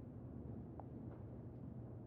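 Quiet room tone with a low steady hum, and a faint click a little under a second in.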